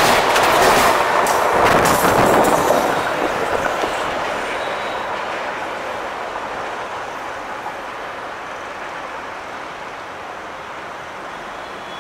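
Suburban EMU train passing right beside the track: the wheels clatter over rail joints under a loud rush until about three seconds in, then the noise fades steadily as the train moves away.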